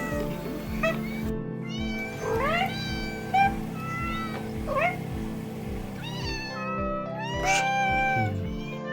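A string of meows from different cats, one after another, some short and some drawn out with a rising or falling pitch, over background music.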